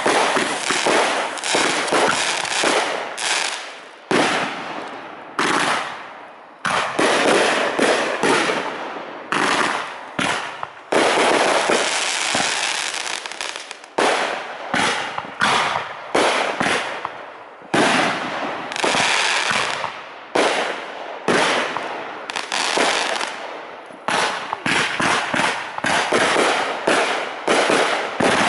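Aerial fireworks display: shells bursting one after another in quick succession, each sharp bang trailing off into a decaying rumble and crackle before the next.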